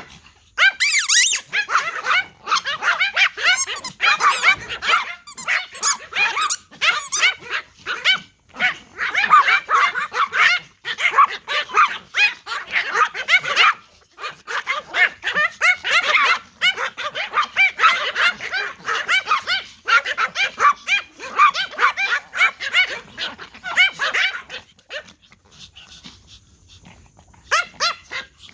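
Several toy Pomeranians barking, a rapid overlapping chorus of high-pitched yaps with brief lulls, dying down near the end after one last short flurry.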